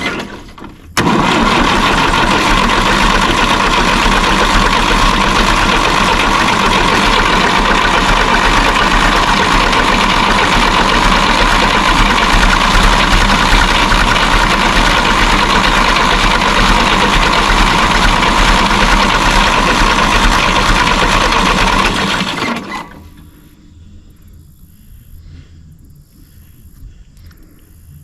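Electric starter cranking the 1954 Fordson tractor's diesel engine without it catching. Cranking breaks off briefly about a second in, resumes and runs steadily, then stops abruptly near the end.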